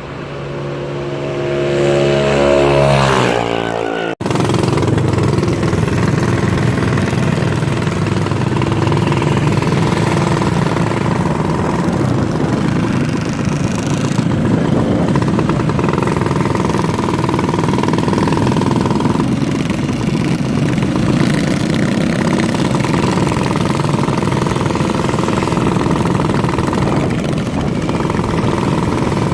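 Minibike engine revving, its pitch rising over the first four seconds, then a sudden break, after which the engine runs steadily to the end.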